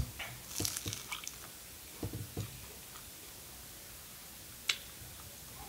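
Close-miked bite into a sauce-dipped fried egg roll, then chewing: a crunch as the bite is taken, a run of crisp crackles over the next second, then softer wet chewing. A single sharp click comes near the end.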